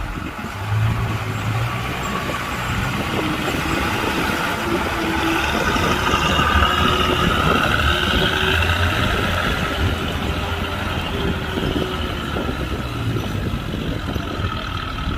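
Engine of heavy earthmoving machinery running steadily, a little louder in the middle.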